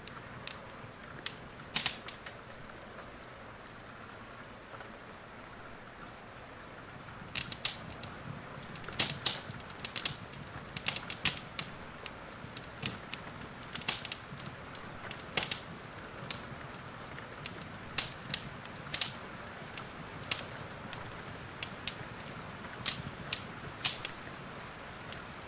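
Fireplace fire crackling, with sharp pops at irregular intervals that come more often from about seven seconds in, over a steady hiss of rain.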